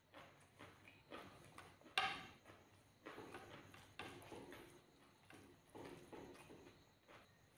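Faint, irregular mouth smacks and clicks of a person chewing a mouthful of rice and curry, with soft sounds of fingers mixing rice on a plate; the sharpest click comes about two seconds in.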